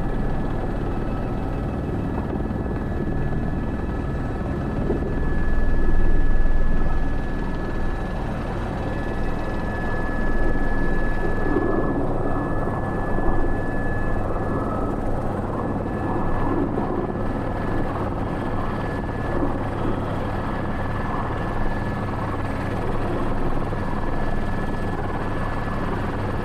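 Airbus H125 (AS350 B3) helicopter's single turboshaft engine and rotor heard from inside the cockpit: a steady high whine over a low rumble, swelling briefly about six seconds in.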